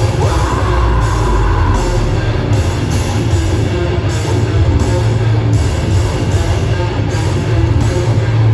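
A heavy rock band playing live and loud: distorted electric guitars over a drum kit, in a dense, continuous wall of sound.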